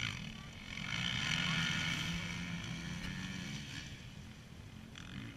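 Motocross bike engine running, swelling to its loudest about a second in and then fading away over the next few seconds.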